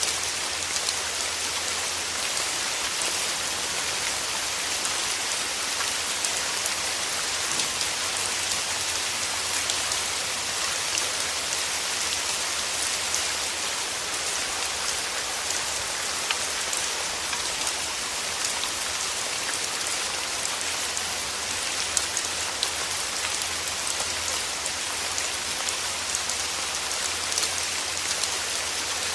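Steady rain falling, an even hiss with many scattered close drop hits.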